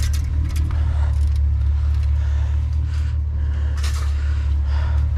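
Vehicle engine idling, a loud steady low rumble, with scattered knocks and rustles of items being moved about in a dumpster.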